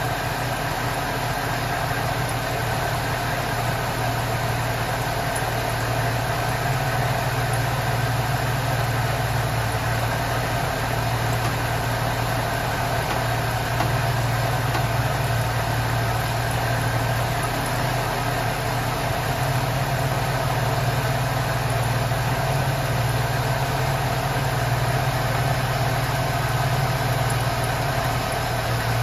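Ford Thunderbird Super Coupe's supercharged 3.8-litre V6 idling steadily with the hood open.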